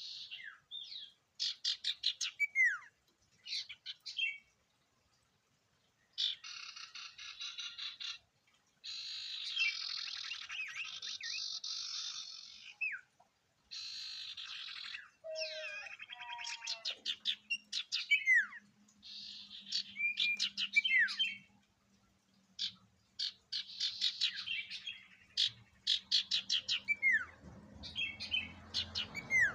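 Sirtu (cipoh) songbird singing vigorously in varied phrases: quick chirp series, sharp down-slurred whistles and long buzzy rattling trills, with short pauses between. A faint low hum sits underneath from about halfway through.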